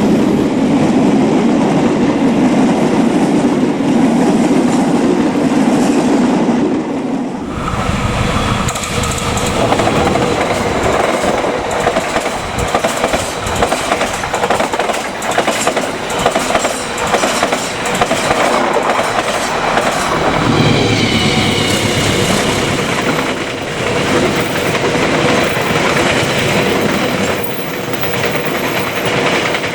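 A train passing close by: a diesel locomotive's engine drone for the first several seconds, then the cars' wheels clacking over the rail joints in a steady run of clicks.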